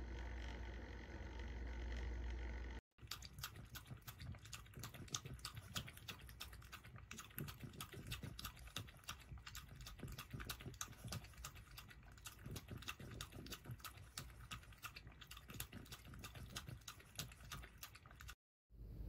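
A cat lapping water in quick, even clicks, several a second. Before it, a few seconds of steady low hum.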